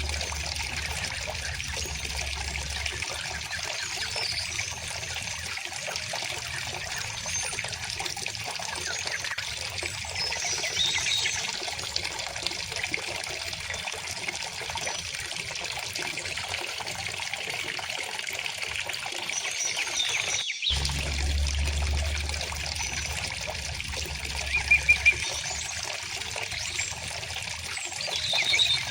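River water flowing steadily, with small birds chirping now and then over it. A brief dropout about twenty seconds in, after which the water carries on.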